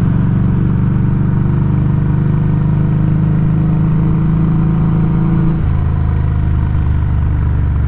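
Exhaust of a Harley-Davidson Street XG500's V-twin engine through a Firebrand Loose Cannon slip-on muffler, heard right at the muffler while riding. It is a steady, loud running note that drops lower about five and a half seconds in.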